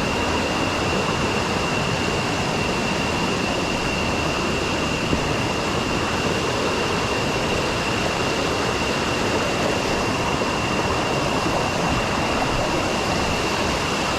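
Steady rushing of a waterfall and the river's cascades, with a thin steady high whine running above the water.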